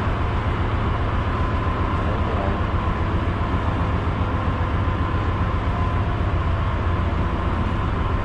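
Steady drone of a ship's engine-room machinery heard from inside the engine control room: a strong low hum with a thin, steady high tone over it.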